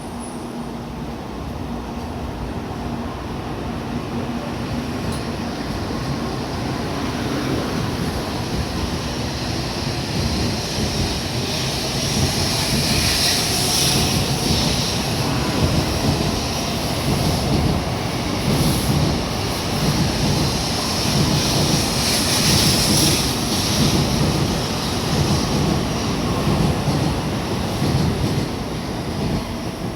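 N700A Shinkansen train pulling out and running past, a rolling rumble and rushing hiss that grows louder as it gathers speed, then eases near the end.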